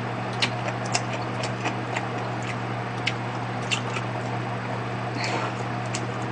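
Chewing a mouthful of gimbap close to the microphone: scattered small, irregular mouth clicks over a steady low hum.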